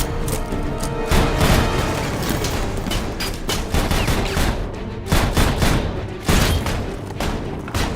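Film gunfight: a rapid, irregular series of gunshots over a music score.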